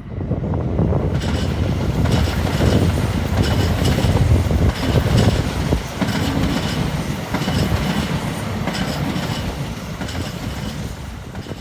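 Kintetsu Nagoya Line train passing close by through the station: loud rumbling with repeated wheel clatter over the rail joints. It comes in sharply at the start and eases off slightly near the end.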